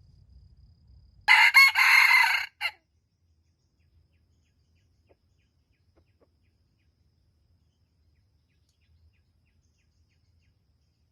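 Junglefowl rooster crowing once, a single short crow of about a second and a half.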